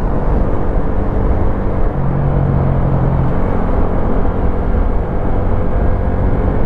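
Wolf Classic 125cc motorcycle engine running under way, a loud, steady low rumble; a low steady hum stands out for about a second, starting about two seconds in.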